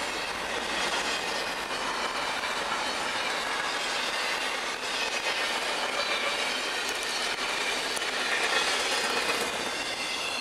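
Double-stack intermodal container train's freight cars rolling past on the rails: a steady noise of steel wheels on track, with faint high-pitched wheel squeal running through it, a little louder about eight seconds in.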